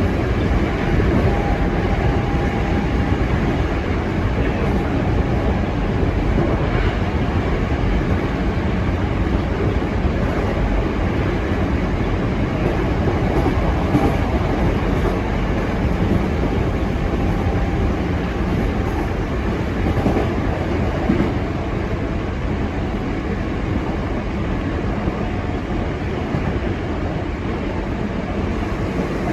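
Hankyu electric commuter train running along the line, a steady rumble of wheels on rail with faint clickety-clack, heard from the front of the train.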